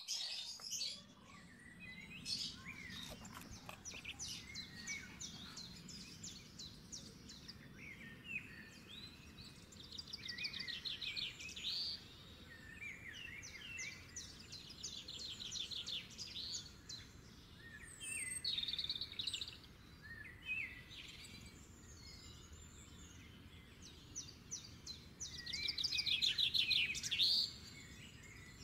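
Songbirds chirping and singing, with rapid high trills every few seconds over a faint steady hum; the loudest trill comes near the end.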